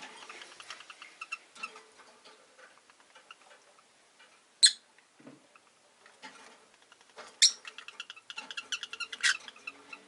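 Rosy-faced lovebirds chirping and chattering in short squeaky notes. There is a sharp loud call about four and a half seconds in, another near seven and a half seconds, then a quick run of chirps near the end.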